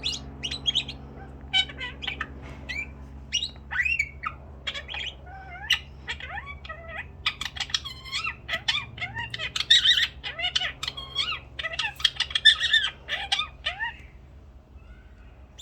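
Pet birds chirping and squawking in a run of many short, quick calls, some sliding up in pitch. The calls grow busier about halfway through and die away near the end.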